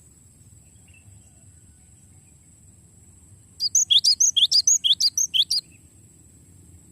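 Gelatik batu (cinereous tit) singing a rapid run of sharp, high repeated notes for about two seconds in the middle, the phrases falling in pitch, about six notes a second.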